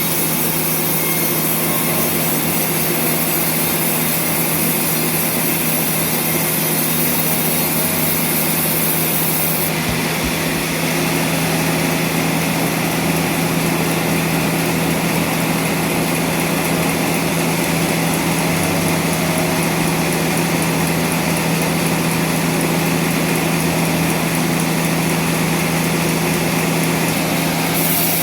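Sawmill saw machinery running steadily while sawing trembesi (rain tree) timber, a constant machine hum under a hiss of cutting. Its tone shifts about ten seconds in.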